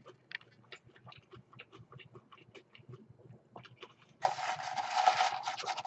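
Close-up chewing of a crispy fried chicken sandwich, with a run of small, faint crunches and clicks. About four seconds in, a louder, steady hissing noise starts and lasts about a second and a half.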